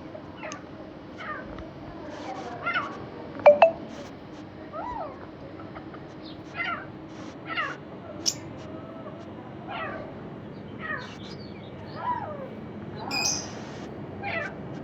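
Animal calls: a run of short, high cries that fall in pitch, one or two a second, with one sharp, louder call about three and a half seconds in.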